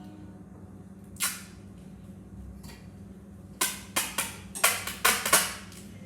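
One sharp click about a second in, then a quick run of about seven clicks and knocks of hard objects being handled, over a steady low hum.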